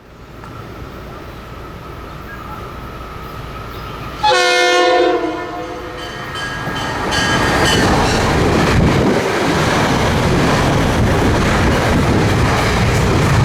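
Metro-North commuter train coming through: its rumble builds, it sounds one horn blast about a second long about four seconds in, then the wheel and rail noise grows louder as the train passes close.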